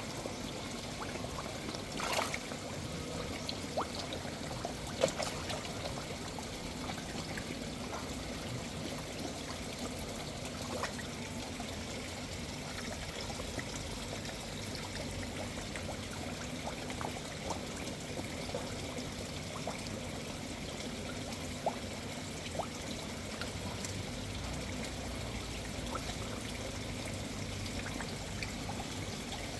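Steady trickle of water running into a koi pond, with a few brief, sharper sounds over it. The loudest of these comes about five seconds in.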